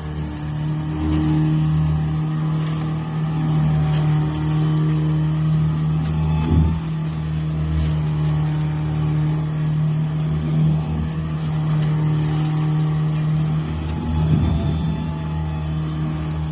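An engine running steadily at an even, unchanging pitch, with a low rumble.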